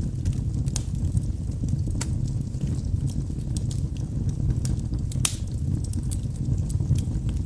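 Wood fire burning in a fireplace: a steady low rumble of flames with scattered sharp crackles and pops from the logs, the loudest a little past five seconds in.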